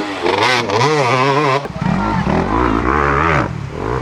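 Dirt bike engines revving, the pitch rising and falling rapidly as the throttle is worked over rough ground, with an abrupt change to a second bike's engine about a second and a half in.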